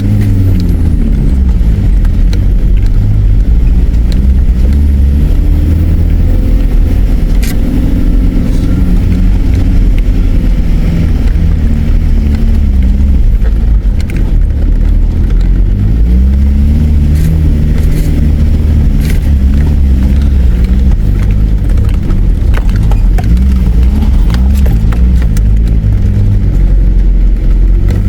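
Four-wheel drive's engine running under load as it drives a dirt track, its revs rising and falling in long sweeps, with a few sharp knocks.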